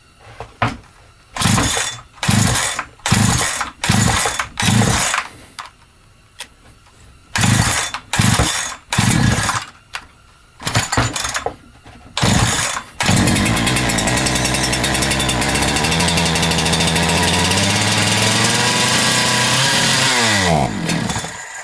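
Holzfforma G372XP two-stroke chainsaw (a Husqvarna 372XP clone) being pull-started: two runs of quick starter-cord pulls, then the engine catches about 13 seconds in, runs steadily for about seven seconds, and dies with a falling pitch near the end. It will not hold an idle even with the low-speed mixture screw turned out, a fuel problem that the owner puts down to it running lean.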